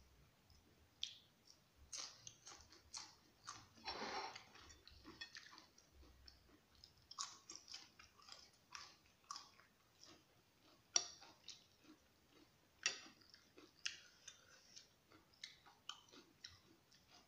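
Close-up chewing and crunching of a raw leek stalk, with a string of short, irregular crisp crunches and mouth clicks; the sharpest bites come about 11 and 13 seconds in.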